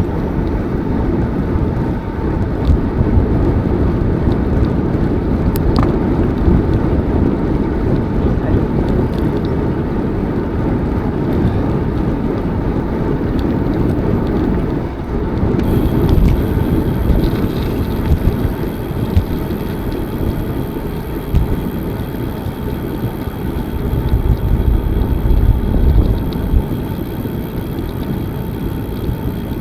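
Wind on the microphone and tyre rumble from a bicycle being ridden along a park path, a steady low rush. About halfway through, a faint, high, steady tone joins it.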